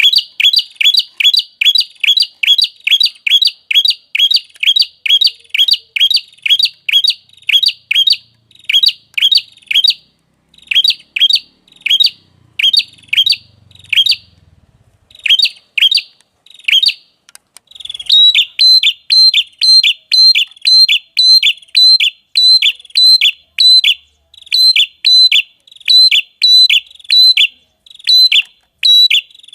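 A small songbird calling a sharp, high-pitched, downward-sliding note over and over, about two to three notes a second. After a short break partway through, the series resumes with a brief higher note leading into each one.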